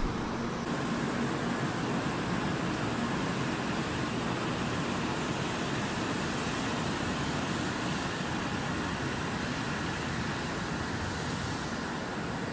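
N700-series Shinkansen train pulling out of the station along the platform: a steady rush of running noise as its cars slide past, with a faint high steady whine, easing off slightly near the end as the tail car moves away.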